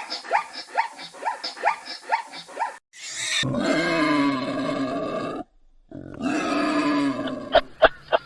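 Animal calls: a quick run of short rising squeals, about three or four a second, then two long calls with a wavering pitch, and a few sharp clicks near the end.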